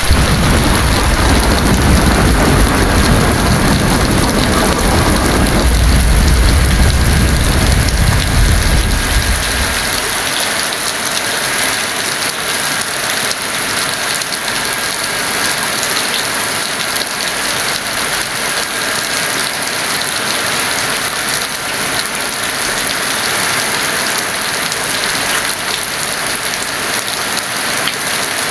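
Heavy rain falling as a steady dense hiss, with a deep roll of thunder rumbling under it for the first ten seconds or so before it fades out.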